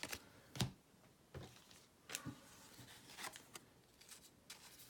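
Trading cards being handled and flipped through: a handful of faint, scattered rustles and soft taps of card stock.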